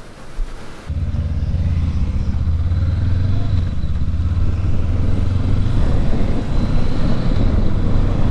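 Motorcycle engine running steadily, cutting in abruptly about a second in.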